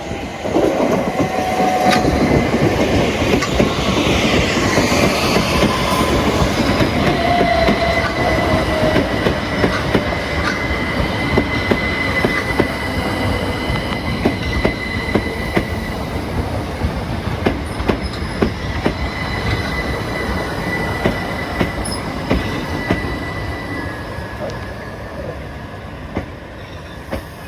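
Southeastern electric multiple-unit train running past, wheels clicking over rail joints, with a steady high wheel squeal over much of its run. The sound eases off near the end.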